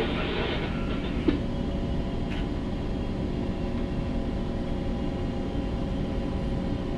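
Steady low rumble of a bulk carrier's machinery heard on the bridge, with a constant hum of several steady tones over it and a single sharp click about a second in.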